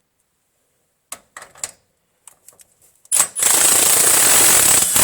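Impact wrench run in a short trigger burst, hammering a control-arm bolt just snug before it is torqued by hand. A few clicks of the socket going onto the bolt come first, then the wrench runs loud and steady from about three seconds in.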